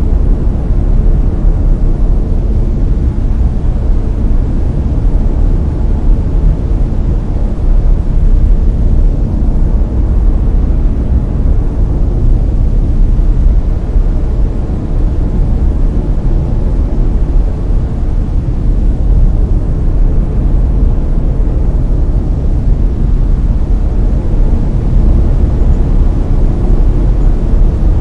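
Steady layered brown noise: a deep, even rumbling hiss, strongest in the low end and fading toward the highs, with no rhythm or events.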